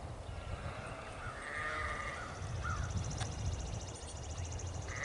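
A farm animal calling with a drawn-out, high cry about a second and a half in, and again right at the end, over a low rumble of wind on the microphone.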